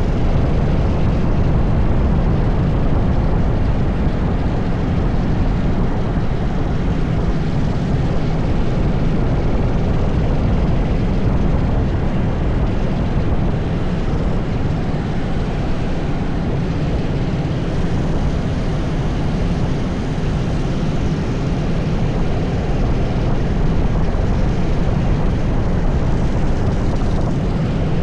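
80cc go-kart engine running at speed on track, a loud, steady drone.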